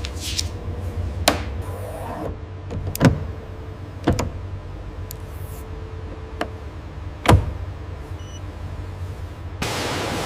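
Factory ambience: a steady low machine hum with a few sharp metallic knocks, the loudest two about 3 and 7 seconds in. Near the end a loud rush of hissing air or spray sets in.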